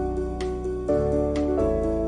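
Background music: soft new-age style piano/keyboard chords held over a low bass, changing chord about every second and a half, with a light tick roughly once a second.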